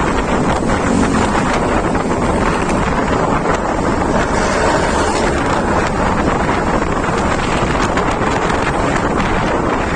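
Wind buffeting the microphone on a moving vehicle: a loud, steady rush with the vehicle's road noise beneath it.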